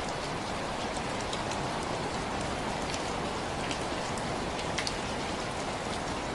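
Steady rain falling and pattering on a surface, with scattered individual drops ticking.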